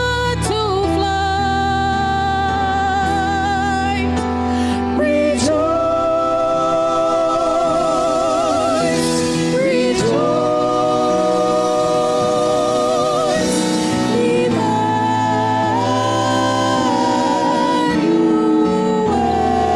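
Gospel-style music with a lead singing voice holding long notes with vibrato over sustained accompaniment chords.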